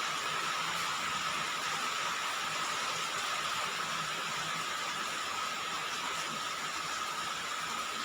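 Rain falling steadily on a roof, an even hiss without pause, with a steady thin tone running underneath.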